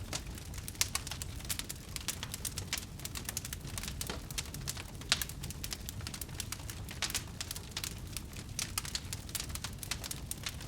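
Wood fire burning, with dense, irregular crackling over a low steady rumble. Two sharper pops come about a second in and about five seconds in.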